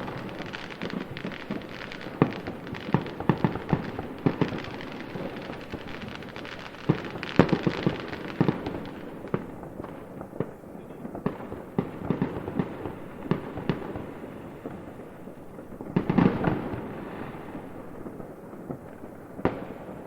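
Fireworks going off: a steady stream of bangs and crackling pops, with heavier clusters of bursts about seven seconds in and again about sixteen seconds in.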